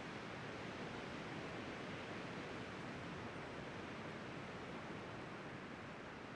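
Steady wind blowing across the microphone on an exposed ridge top, an even rushing noise without gusts or breaks.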